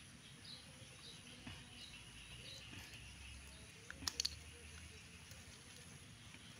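A small bird chirping over and over, short high notes about twice a second, against quiet outdoor background, with a quick cluster of sharp clicks about four seconds in.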